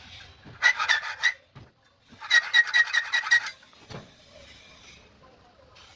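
Quick back-and-forth rasping strokes of a hand tool working metal, each with a thin squeal. They come in two runs: a short one about half a second in, and a longer one of about seven rapid strokes from about two to three and a half seconds in.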